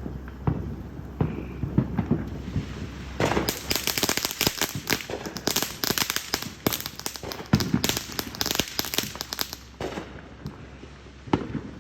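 Fireworks crackling: a few scattered pops, then from about three seconds in some six seconds of dense, rapid crackling and popping that thins out to sparse pops near the end.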